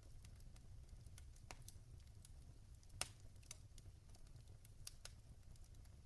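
Logs burning in a fireplace, crackling: scattered sharp pops and snaps at irregular intervals, the loudest about three seconds in, over a faint low rumble.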